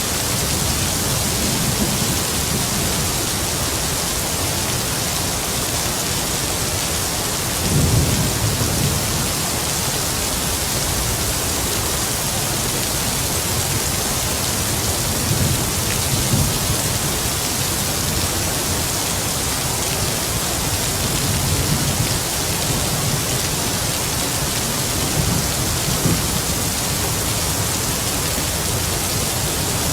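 Heavy rain falling as a steady hiss, with low rumbles of distant thunder rising under it several times, the strongest about eight seconds in and another starting at the very end.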